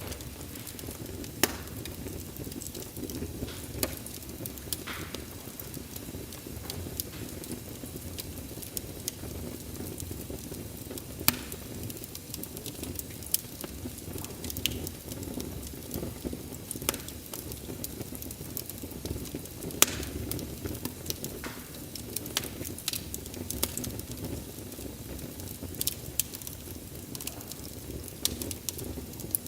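Wood fire burning steadily with a low rumble, crackling, and scattered sharp pops, a few of them much louder than the rest.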